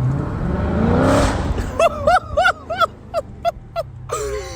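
Dodge Challenger Scat Pack's 392 Hemi V8 through an exhaust with the mid mufflers and resonators deleted, idling and then revved once, the pitch rising and falling back about a second in. After it comes a quick run of about eight short, pitched yelps, like an excited voice.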